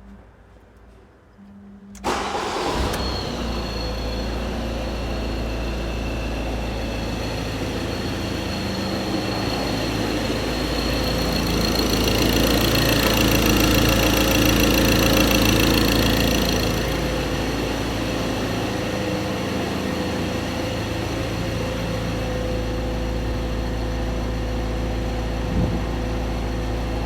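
Ford Transit 2.0 TDCi diesel engine starting about two seconds in, then running steadily, louder for a few seconds in the middle before settling back to an idle. It starts and keeps running now that its in-tank fuel pump gets power through a jumper wire that bypasses the faulty fuse box.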